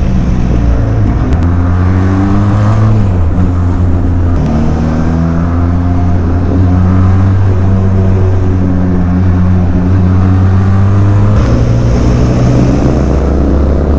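Motorcycle engines running hard on the road, the pitch climbing and dropping several times with throttle and gear changes; among them the air-cooled L-twin of a Ducati Scrambler 1100 riding just ahead, revved hard.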